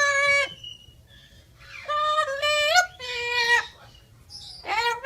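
A parrot making high-pitched, voice-like calls in four short bursts, the pitch wavering slightly within each.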